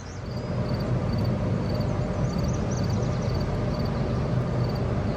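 Diesel locomotive approaching, its engine rumble building over the first second and then running steady. It is working hard in a middle throttle notch, judged to be notch 5, a sign that the train is not slowing to stop.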